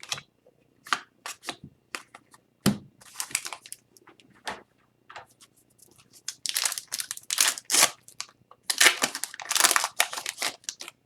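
Hockey card pack wrappers being torn open and crinkled, with cards clicking and shuffling in the hands. There are several longer tearing, rustling stretches about three, seven and nine seconds in.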